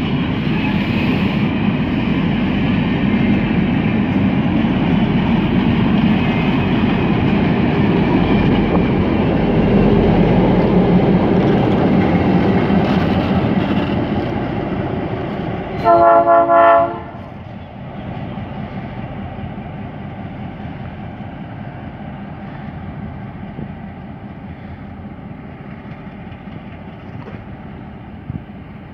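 Freight train of ballast hopper wagons and a GR12 diesel locomotive rolling past on the rails, with loud, steady wheel noise. About halfway through, the locomotive's horn sounds one short blast of about a second, with several tones at once. After that the rolling noise drops and fades as the train moves away.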